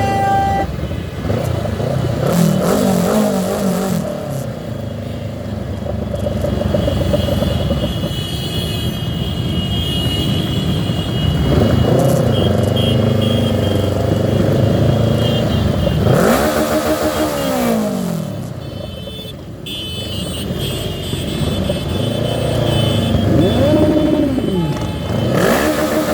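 Motorcycle engines revving in heavy traffic, their pitch climbing and falling again several times over a steady low engine rumble.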